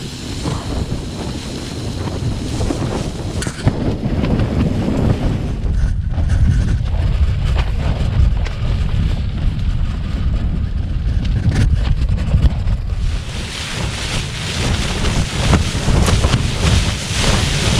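Strong gusts of wind buffeting a single-skin Lanshan 2 Pro tent, heard from inside: the fabric ripples and snaps over a heavy rumble of wind on the microphone, rising and falling with each gust.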